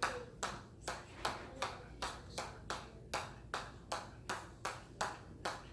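Hammer striking an anvil in a steady rhythm, about two and a half ringing blows a second, as repetitive hammer-control practice.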